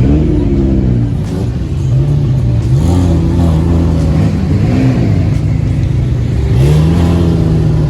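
Car engine revving in repeated short blips, its pitch rising and falling about four or five times over a steady running note.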